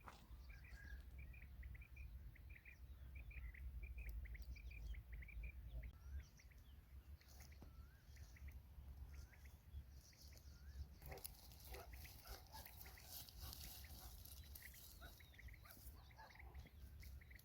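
Faint chirping of small birds in quick repeated short notes over a low wind rumble. About eleven seconds in it gives way to a patch of rustling and clicking.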